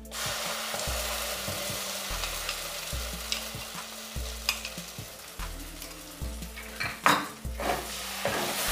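Green pea paste sizzling and frying in hot spiced oil in a metal kadai, with a few scrapes and knocks of a metal spatula stirring it, the loudest about seven seconds in.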